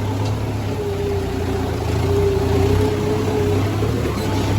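Tractor engine running steadily, a low hum with a whine that comes in about a second in.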